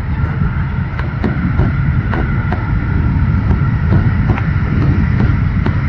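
Jet airliner engines rumbling with a faint steady whine, growing slightly louder, with wind buffeting the microphone.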